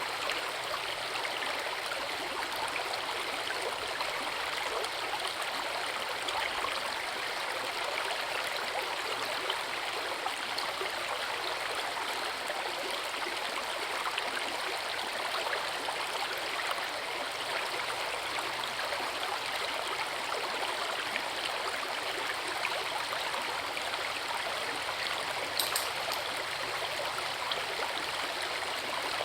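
Forest river flowing over a small waterfall, a steady, even rush of water with some gurgling. One brief sharp tick near the end.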